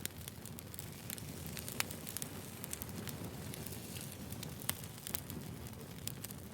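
Burning firewood crackling: a steady low rumble of flame with irregular sharp pops and snaps, two louder pops about two seconds and nearly five seconds in.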